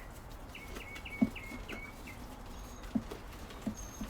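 A bird chirping a quick run of about six short falling notes, with a few dull knocks around it, the loudest about a second in.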